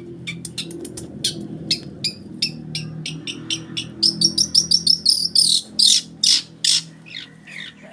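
Long-tailed shrike (cendet) singing a run of short, sharp chirps and whistles in its mimicry-filled song. The calls come faster and louder from about halfway.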